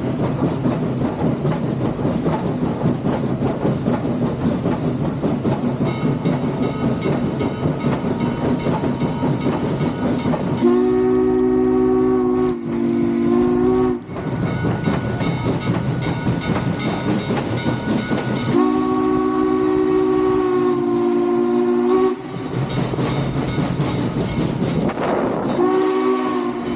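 Steam locomotive running past with its chime whistle sounding several times: two blasts about eleven seconds in, a longer blast a few seconds later, and a short one near the end, over the steady rumble of the train.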